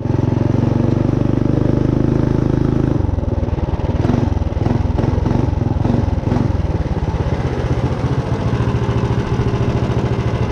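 Minibike's built Tillotson 212 single-cylinder engine running under way, steady for about three seconds, then uneven and choppy as the throttle varies.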